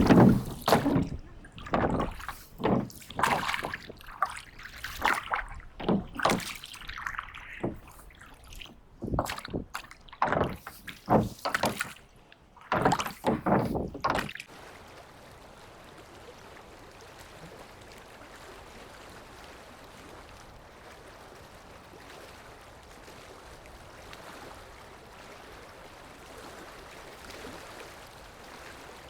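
Water splashing and sloshing in a string of short, irregular bursts for about fourteen seconds. After that comes a steady faint hiss of open-air background.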